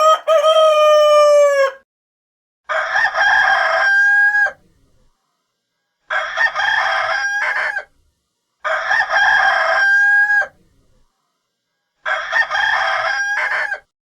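Rooster crowing five times, each cock-a-doodle-doo lasting about two seconds with short silent gaps between; the first crow falls steadily in pitch, the other four hold a high note at the end.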